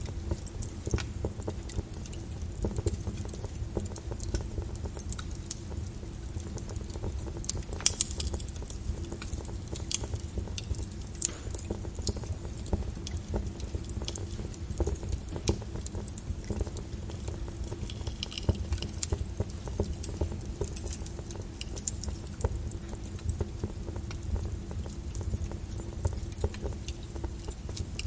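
Wood fire crackling in a fireplace: a constant scatter of small irregular pops and snaps over the low rumble of the flames, with one sharper pop about eight seconds in.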